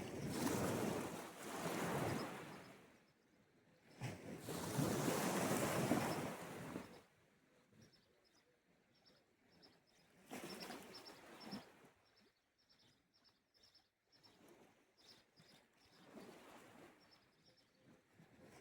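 Sea waves washing onto the shore in repeated surges, each swelling and fading over a couple of seconds; the two loudest come in the first seven seconds, with weaker ones later.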